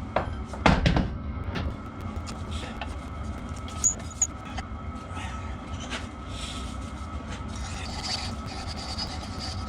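Knocks and clinks of tools and metal parts being handled at a workbench, loudest about a second in, with two sharp clinks around four seconds, over a steady background hum.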